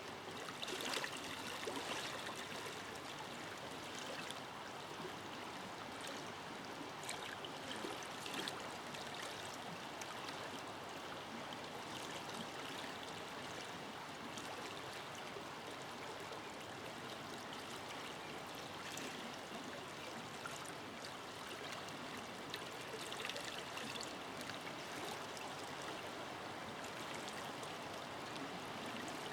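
A forest river flowing steadily over stones, a constant rush of water with small splashes and gurgles now and then.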